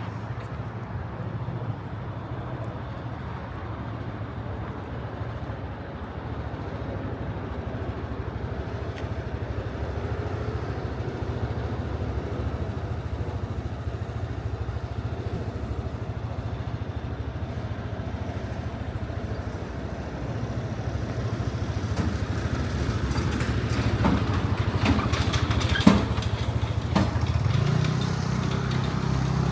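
Steady low rumble of road traffic in a city street. A few sharp clicks or knocks come about 24 to 26 seconds in, and a vehicle grows louder near the end.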